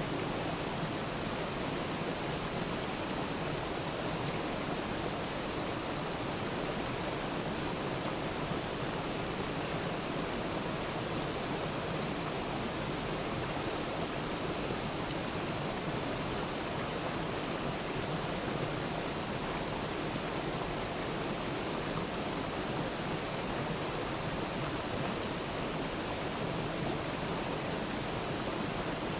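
Waterfall rushing: an even, unbroken wash of falling water.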